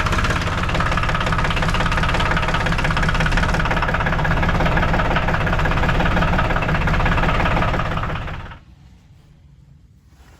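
Ford 1720 tractor's three-cylinder diesel engine running at idle, then shut off about eight and a half seconds in.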